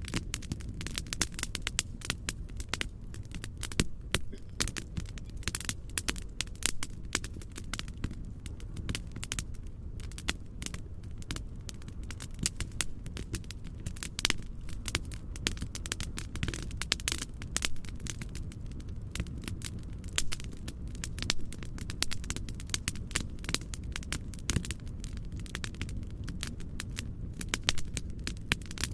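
Fireplace fire crackling, with frequent irregular pops and snaps over a steady low noise.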